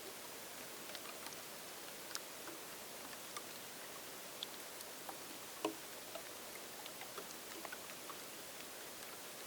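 Sparse rain: scattered raindrops ticking and pattering at irregular intervals over a steady hiss, with one louder drop about five and a half seconds in.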